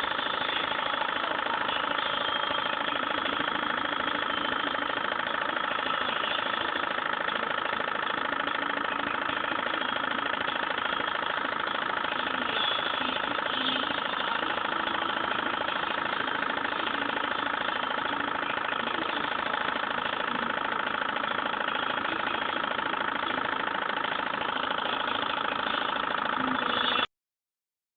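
Stirling engine running steadily, a continuous mechanical hum with a few steady tones; it cuts off suddenly about a second before the end.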